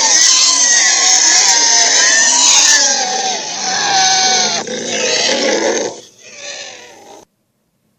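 Loud, rough monster roar sound effect of the kaiju Slattern, with wavering pitched tones over a noisy growl. It weakens about six seconds in and cuts off abruptly about a second later.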